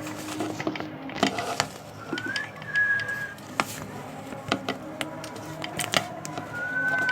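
A bird giving two long whistles, each gliding up and then held steady, over scattered sharp clicks and taps.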